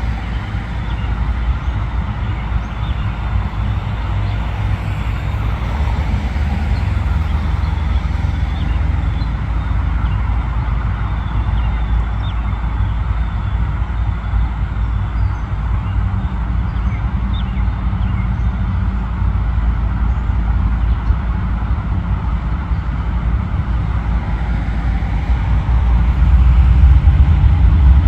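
Freight train's diesel locomotives running, a steady deep rumble that grows louder about two seconds before the end.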